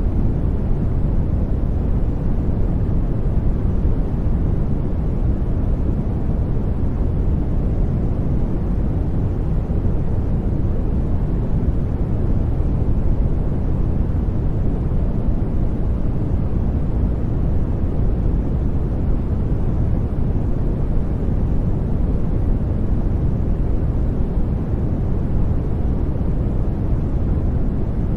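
Continuous sleep-aid noise: a deep, steady rush weighted toward the low end, with no changes.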